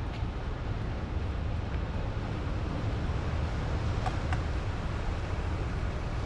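Steady wind rumbling on the microphone over the rush of surf. Two faint clicks about four seconds in.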